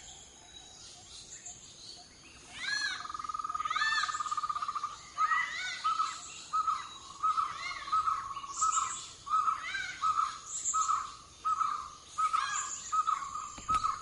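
Birds calling: short, arched, chirping notes, and from about three seconds in a steady pitched call that breaks into a rhythmic series of notes about two a second for the rest of the time.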